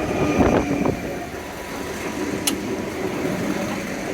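Adelaide Metro 3100-class diesel railcar running at the platform with a steady engine hum. There is a single sharp click about two and a half seconds in.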